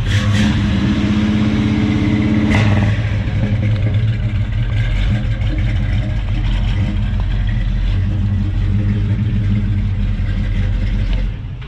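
Car engine running loud and steady at low speed, with a couple of sharp clicks in the first few seconds; the engine sound drops away about eleven seconds in.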